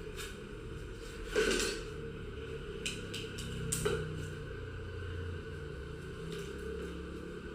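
A few sharp metallic clanks and clicks, the loudest about a second and a half in and another near four seconds, over a low steady hum.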